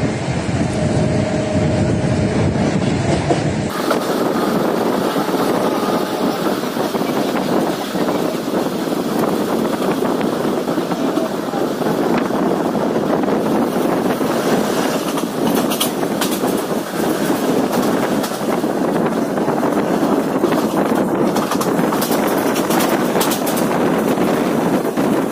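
Steady running noise of an Indian Railways express train heard from inside a moving coach, its wheels rolling on the rails. The deep rumble drops away about four seconds in, and a few sharp clicks come past the middle.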